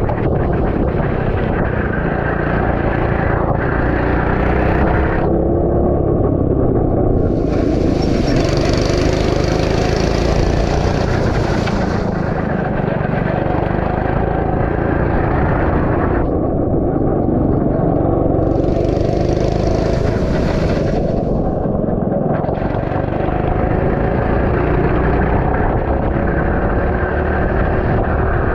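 Go-kart engine running at the track, its pitch rising and falling as the kart accelerates and slows through the corners. A high hiss joins it twice, for a few seconds each time.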